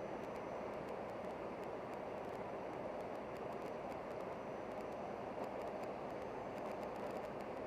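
Steady running noise of a vehicle in motion: an even rumble with faint scattered ticks, unchanging throughout.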